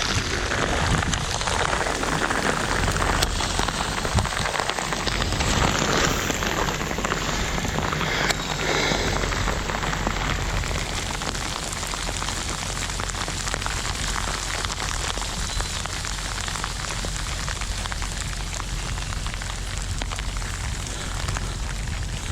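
Steady rain falling, a dense patter of drops, a little heavier in the first half and easing slightly after.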